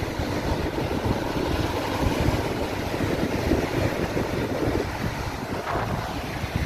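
Wind buffeting the microphone, with a steady rush of surf behind it.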